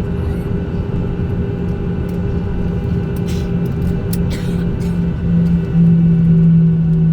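Boeing 737-800 cabin noise on the ground: a steady engine and air-conditioning rumble with a low hum that gets louder about five and a half seconds in. A few faint clicks sound in the middle.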